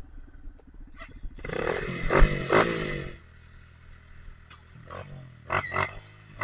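Off-road motorcycle engine revving in bursts, with a long rise and fall about one and a half seconds in, a quieter stretch, and short blips of throttle near the end.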